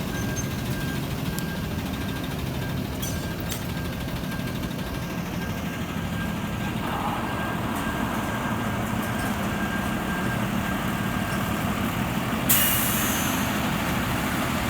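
Freightliner M2 rescue truck's diesel engine running steadily at low speed. Near the end comes a sudden sharp hiss of air lasting about a second, like air brakes being set.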